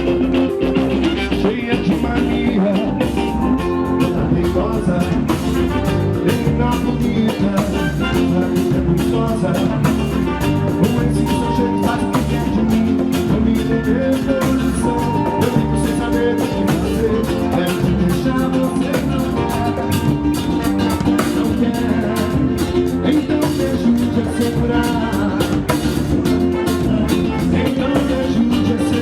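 Live band music with guitar and a steady drum beat playing for dancing.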